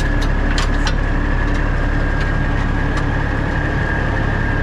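Diesel engine idling steadily, with a constant high-pitched whine over it and a few sharp clicks in the first second.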